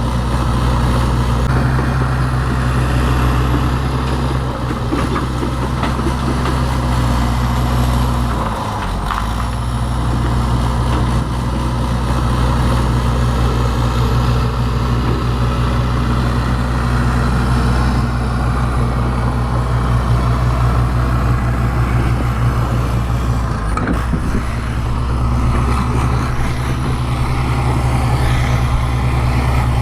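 Bulldozer's diesel engine running steadily at working speed, its pitch sagging briefly about nine seconds in and again near twenty-four seconds before recovering.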